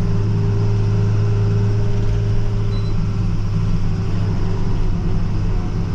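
Steady drone of a TerraStar plow truck heard from inside its cab while it drives and spreads salt: an even low engine hum with a faint steady higher tone over road noise.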